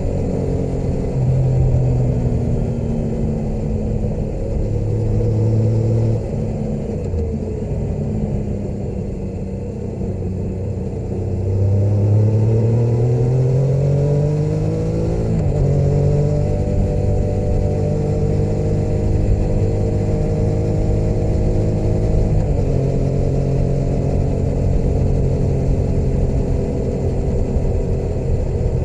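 Motorcycle engine running under way. The pitch sinks as the rider eases off, then climbs steadily under acceleration until it drops sharply about halfway through at an upshift. It then holds steady, with another small drop in pitch near three-quarters of the way through.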